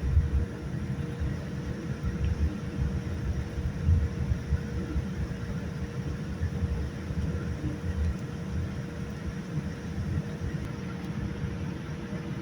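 Cabin noise aboard a Boeing 787-9 airliner: a steady low rumble with uneven surges, and a steady hum underneath.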